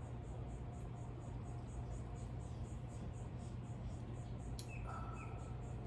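A steady, high-pitched insect-like trill of about seven pulses a second, over a low steady hum, with a click and a short call about five seconds in.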